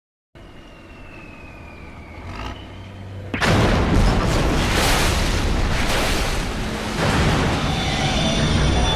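Film action-scene sound effects: a quieter stretch, then about three and a half seconds in a sudden loud boom that carries on as a continuous roar with crashing impacts.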